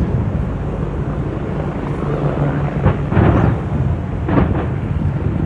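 Fireworks exploding overhead: a continuous low rumble of booms, with sharper bangs about three seconds in and again a second or so later.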